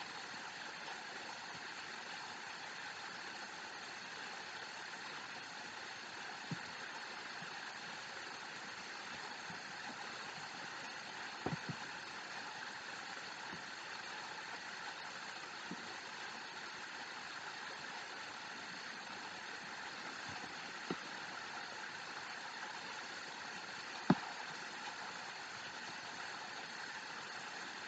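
Faint, steady rushing of a waterfall recording being played back, with a handful of sharp clicks, the loudest near the end.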